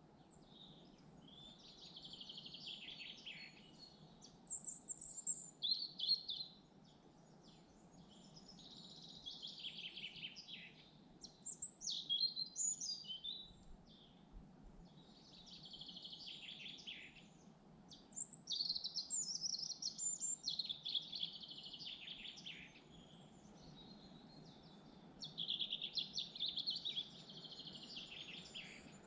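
Songbirds singing: short chirping and trilling phrases, a few seconds apart, over a steady low background hiss.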